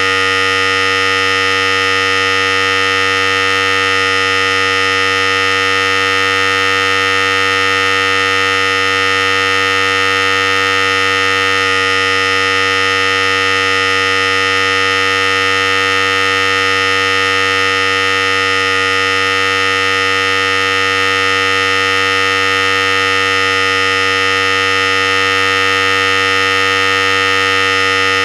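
Philips Series 5000 hair clipper running steadily at one unchanging pitch.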